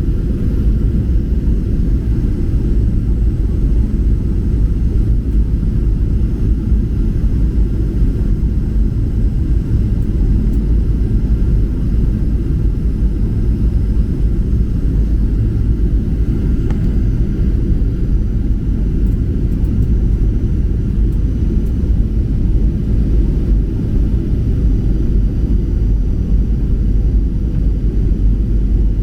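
Steady low rumble of a Boeing 737-800 heard from inside the passenger cabin in flight: engine and airflow noise, even and unchanging.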